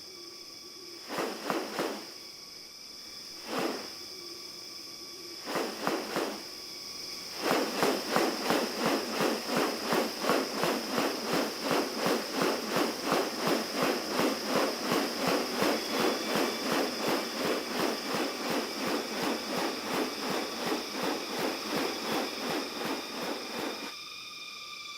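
Rainforest animal sounds: a steady high insect drone throughout. A few short calls come in the first seconds, then a rapid, regular pulsing call, about three pulses a second, runs for some sixteen seconds.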